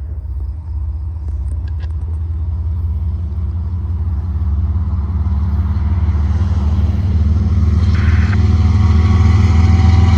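A pair of diesel locomotives running light (no cars behind them) approaching, their low engine rumble growing steadily louder. A brief high tone sounds about eight seconds in.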